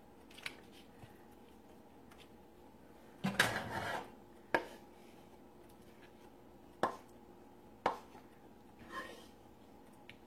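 Kitchen utensils knocking and scraping against dishes as food is served onto a plate: a few scattered knocks and clicks, with a short scrape a little over three seconds in.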